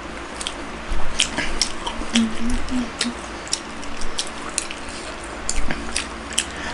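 Close-miked eating sounds: wet chewing clicks and lip smacks from people eating steamed momo dumplings and pizza, scattered irregularly, with a brief hummed 'mm' about two seconds in.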